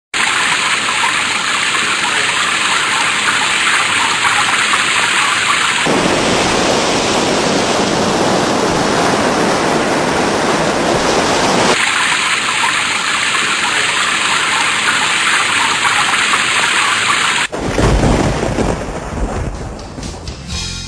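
Thunderstorm: heavy rain hissing steadily, its texture changing abruptly twice, then a deep thunder rumble breaking in near the end and fading away.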